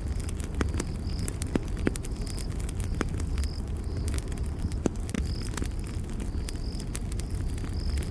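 Campfire crackling, with scattered sharp pops and snaps over a steady low rumble of burning. A cricket chirps in short pulses, about once or twice a second.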